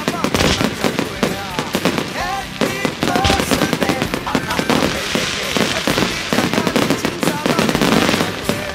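Fireworks crackling in a dense, rapid run of pops, with music and voices mixed in.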